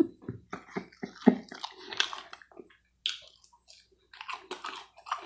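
Close-miked chewing and wet mouth noises of someone eating pancakes and bacon: many short, irregular smacks and clicks, pausing briefly a little past halfway.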